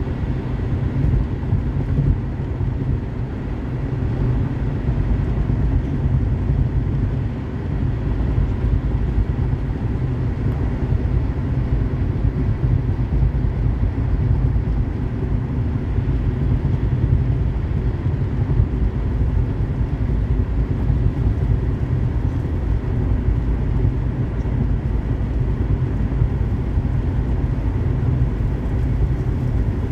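Car driving at steady highway speed: a constant rumble of road and tyre noise with engine hum, unchanging throughout.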